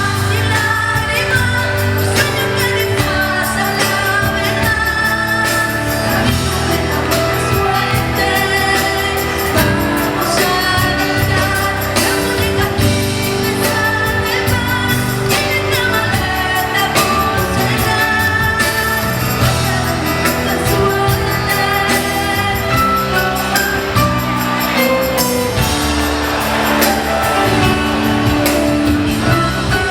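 Live pop concert music: a band with a regular drum beat and a woman singing over it, loud and continuous.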